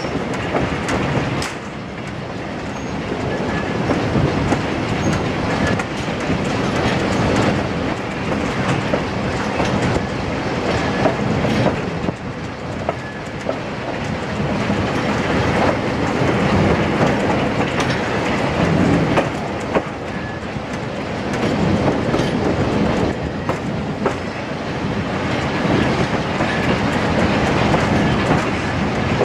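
Passenger coach rolling along jointed track: the wheels click over rail joints amid a continuous rumble and rattle of the carriage, heard from an open window.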